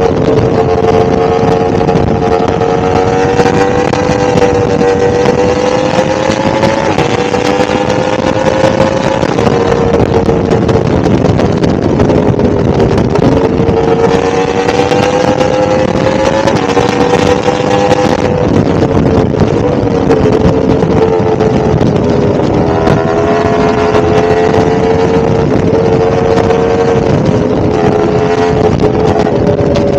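1000cc motorcycle engine running steadily while riding. Its note drifts gently up and down, with a few brief dips in pitch.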